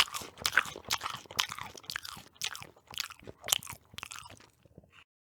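Crunchy chewing close to the microphone: a run of irregular crunches that thins out and stops a little before the end.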